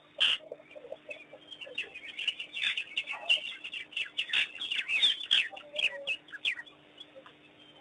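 Many short, high chirps and squeaky calls in quick irregular runs, thickest in the middle, some of them sliding down in pitch, over a faint steady hum.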